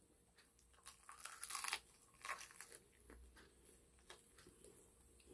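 Faint crunching of crispy breaded fried chicken being bitten and chewed, in short irregular crackles that are strongest between one and two seconds in.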